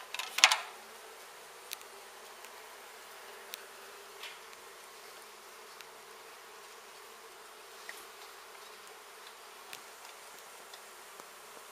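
Mass of honey bees from an open hive buzzing in a steady hum. There is a sharp knock about half a second in, then a few faint clicks.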